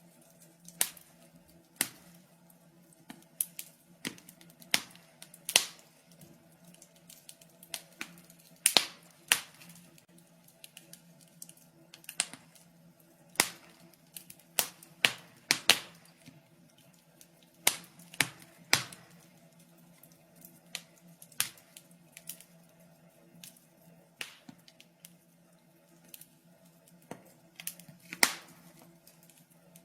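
Wood fire crackling in a fireplace: irregular sharp pops and snaps, some close together in quick clusters, over a faint steady low hum.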